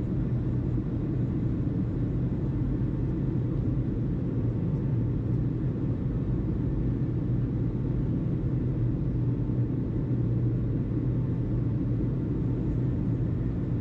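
A steady low rumble that holds unchanged, with no radio transmission over it.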